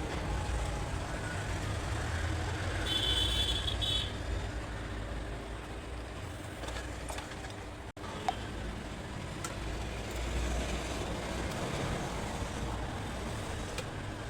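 Steady low background rumble of the kind distant road traffic makes, with a few faint clicks and a brief high-pitched sound about three seconds in. The sound cuts out for an instant about halfway through.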